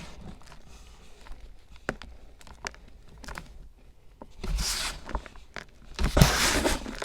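Close-up crunching and crackling from something being handled for ASMR: scattered small crackles, with two louder crunches about four and a half and six seconds in.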